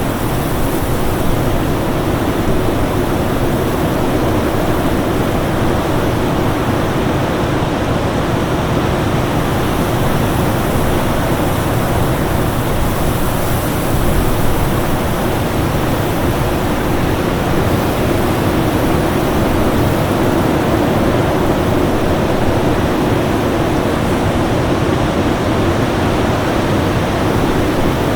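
Winter storm ambience: a steady, even rush of wind noise, deep and full, with no distinct gusts, breaks or other events.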